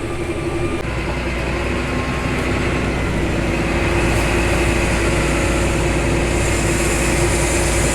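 Harvest machinery running steadily with a constant engine hum and drone; a deeper low hum joins about a second in.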